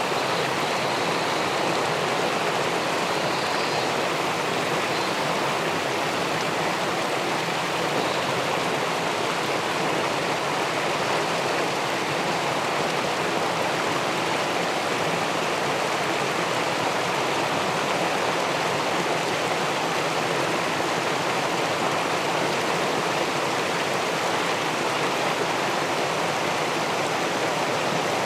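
River water pouring over a weir (check dam) into the pool below: a steady, unbroken rush.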